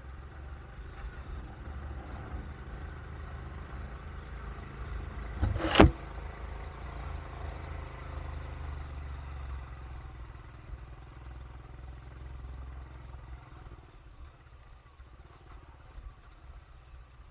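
Low, steady rumble of a road vehicle in motion, with one sharp, loud knock about six seconds in. The rumble eases off near the end.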